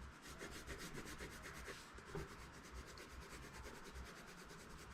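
Pencil scratching on paper in quick, repeated back-and-forth strokes, shading in a shadow; faint.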